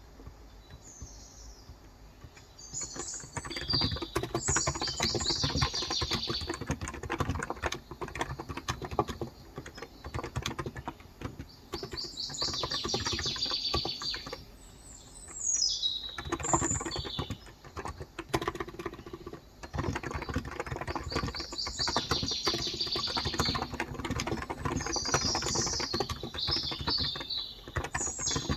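Fast typing on a Cox Endeavor tenkeyless keyboard with 35g electrostatic capacitive switches: runs of keystrokes that start about three seconds in and pause briefly twice. Small birds chirp repeatedly in the background.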